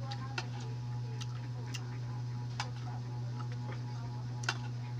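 Close-up eating sounds while eating balut: scattered small sharp clicks and taps at irregular intervals, over a steady low hum.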